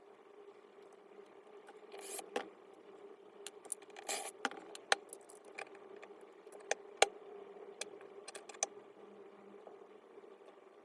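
Small parts being handled during disassembly of a disc grinder: a series of sharp clicks and light knocks, with two short scrapes about 2 and 4 seconds in, over a faint steady hum.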